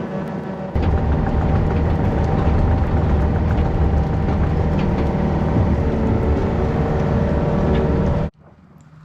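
A heavy-equipment diesel engine running steadily under load, rising in level about a second in, then cutting off abruptly near the end.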